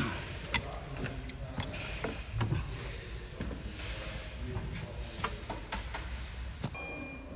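Scattered clicks and light knocks of hand work on car parts, with one duller thud about two and a half seconds in, over a low background rumble.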